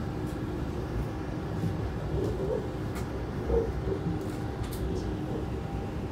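Steady low rumble of a Lastochka (Siemens Desiro RUS) electric train running, heard inside the passenger car, with a few faint clicks.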